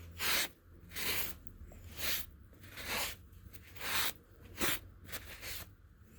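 Limestone block being ground down in rough back-and-forth scraping strokes, about one a second and quicker near the end, as it is worked into a sharpening stone.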